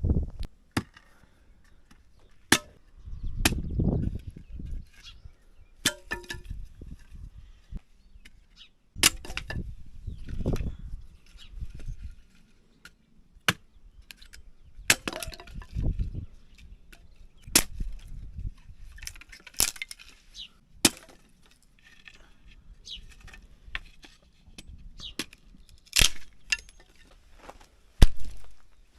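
Irregular sharp clicks and knocks with a few dull thumps, the sound of things being handled and set down.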